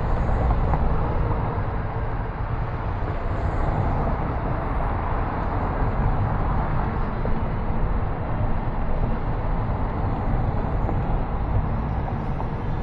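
Steady road and engine noise of a car driving, a low, even rumble with no distinct events.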